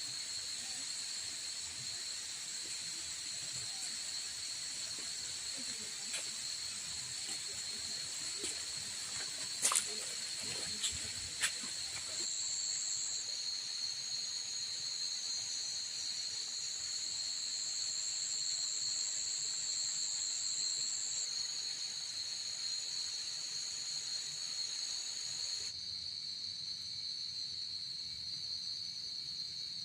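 Steady high-pitched drone of insects in a pine forest, with a few short clicks about ten seconds in.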